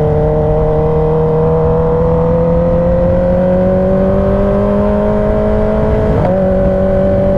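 Kawasaki ZX-10R inline-four engine pulling steadily while riding, its pitch climbing slowly. About six seconds in the note breaks briefly and settles slightly lower, a gear change.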